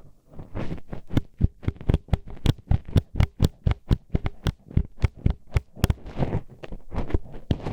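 Metal hairpin poked into the ear of a binaural microphone, making rapid, irregular clicking knocks, several a second.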